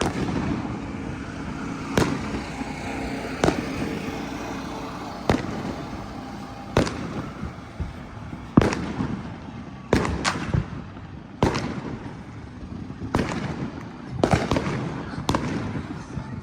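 Fireworks going off: sharp bangs at irregular intervals, about one a second, each with a trailing echo, over a constant rumble of more distant explosions.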